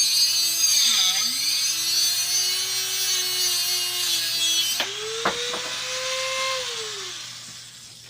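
Rotary tool with a cut-off wheel cutting through 1/4-inch steel all-thread rod: a high whine with harsh grinding hiss, the pitch dipping about a second in as the wheel bites. The grinding stops about five seconds in, the tool speeds up unloaded, then spins down near the end.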